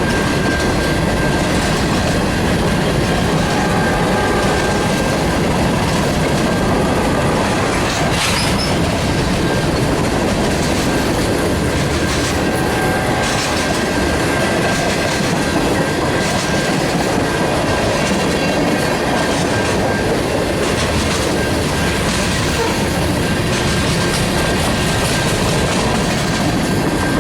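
Freight train cars rolling past, wheels clattering over the rails, with a thin, steady high-pitched wheel squeal throughout.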